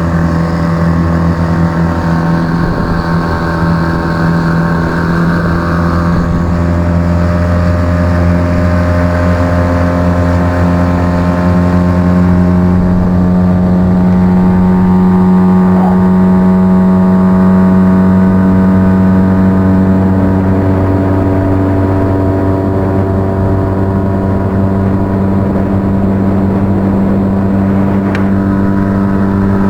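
A small fishing boat's motor running at a steady speed under way, a loud even drone whose pitch holds nearly constant.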